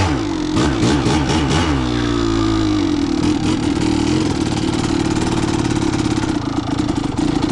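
Kawasaki KDX200's two-stroke single-cylinder engine revving under throttle, its pitch dropping about two seconds in and then holding at a steady note.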